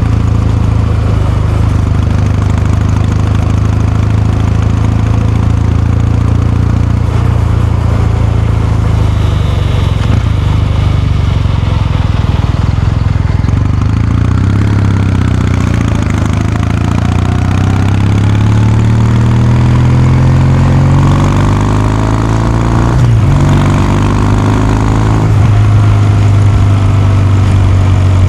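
Kawasaki Meguro K3's air-cooled parallel-twin engine and exhaust while riding: a steady cruise, then a long pull with the pitch rising, a drop in pitch at an upshift about 23 seconds in, and another shift about two seconds later before it settles into a steady run.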